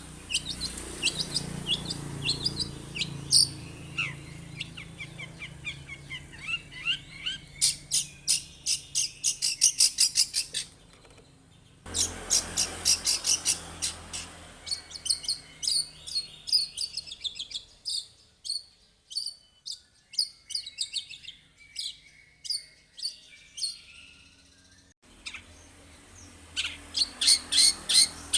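Long-tailed shrike (cendet) singing a fast run of sharp, high chirps and trills, with loud rapid bursts. It breaks off for about a second around eleven seconds in, and the song goes fainter and sparser for several seconds past the middle.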